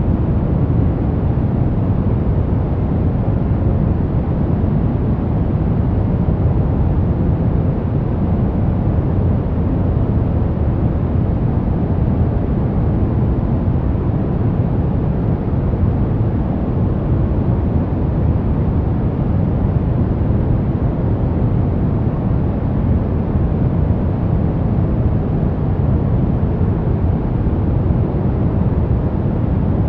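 Steady electronic white noise for baby sleep, deep and dull rather than hissy, its weight in the bass, unchanging with no breaks.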